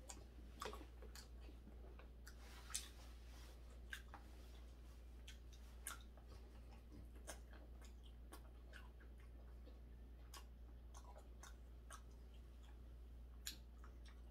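Faint chewing of raw hairtail sashimi, with scattered wet mouth clicks and small sharp clicks, one louder about three seconds in, over a steady low hum.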